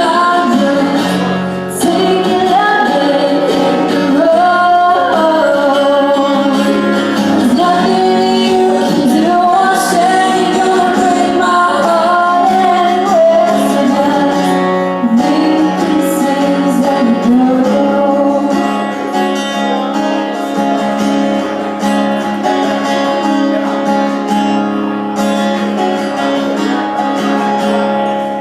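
A woman sings a country song live with an acoustic guitar strumming chords behind her.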